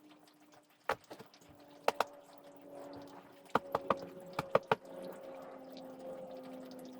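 A series of sharp knocks: one about a second in, a pair near two seconds in and a quick run of five or six around four seconds in, over a faint steady hum.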